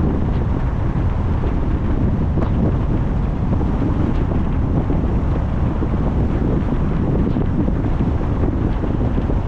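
Steady low rumble of wind and road noise from a car driving along, with wind buffeting the microphone.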